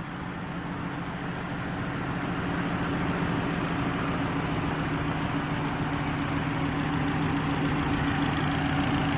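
Hyundai Theta II inline-four petrol engine running steadily on test with an even hum. It grows louder over the first few seconds, then holds level.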